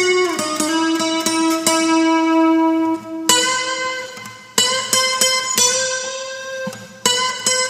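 Instrumental guitar music: picked single notes, some held and left to ring for a few seconds before the next phrase.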